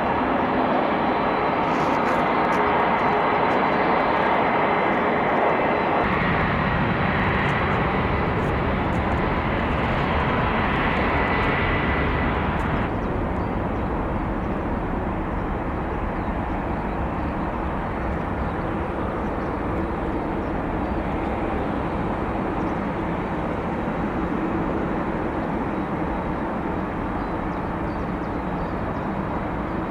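Boeing 737 MAX 8's CFM LEAP-1B turbofans at takeoff thrust: a loud, steady jet rumble with a thin whine on top. About six seconds in the sound turns deeper, and about thirteen seconds in the higher hiss falls away.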